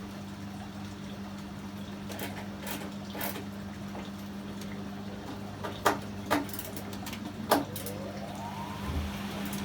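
Privileg 804 washing machine running with a steady motor hum, a few sharp clunks from the drum a little past the middle, and a short rising whine near the end.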